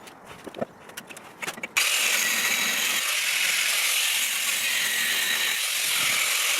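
A few light clicks and knocks, then about two seconds in an angle grinder starts cutting suddenly and runs on as a steady, loud, high hiss as the disc cuts through rotten chassis steel.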